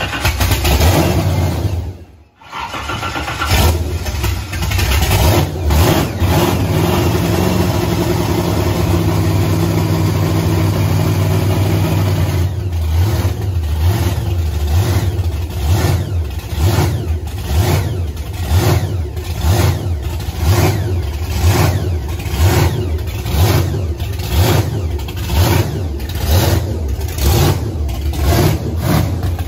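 Fifth-generation Chevrolet Camaro's modified engine cold-started after sitting. It drops out briefly about two seconds in, then catches and runs at a fast, even idle. About twelve seconds in it settles into a rough, lopey idle pulsing about twice a second.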